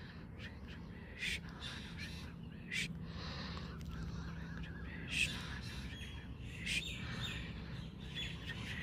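Birds calling outdoors: short, sharp calls every second or two, over a steady low hum.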